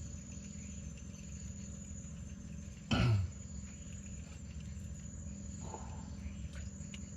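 Steady chorus of night crickets and other insects, with a high, unbroken tone. About three seconds in, one short, loud sound falls quickly in pitch.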